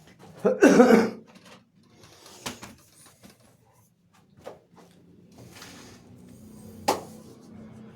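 A man coughs once, loudly, followed by a few faint, sharp clicks and knocks.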